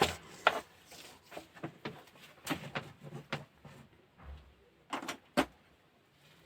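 A string of irregular light clicks and knocks from hands handling the room heater and its fittings, with a sharp double click about five seconds in. The heater's blower is not running.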